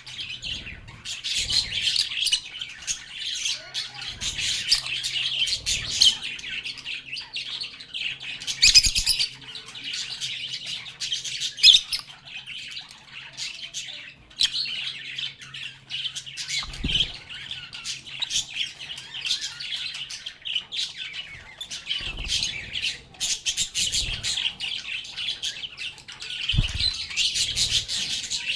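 A flock of lovebirds (Agapornis) chattering continuously, a dense mix of high chirps and squawks, with a few brief low knocks.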